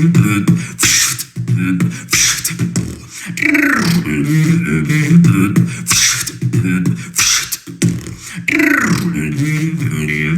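Solo human beatboxing: a pitched vocal bass line under sharp mouth-made kick, snare and hi-hat strokes, with a high falling swoop sound recurring about every two to four seconds.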